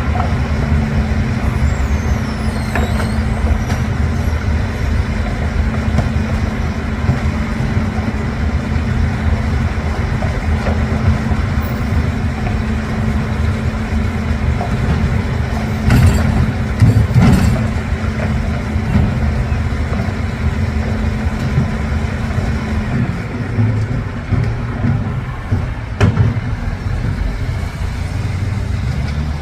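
Rotopress rotating-drum garbage truck running steadily with a low diesel hum, with a burst of knocks and clatter a little past the halfway point and one sharp knock near the end as bags are loaded.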